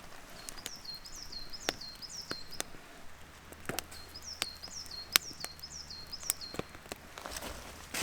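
A small bird singing two runs of high, quickly repeated notes, with sharp clicks and knocks scattered through.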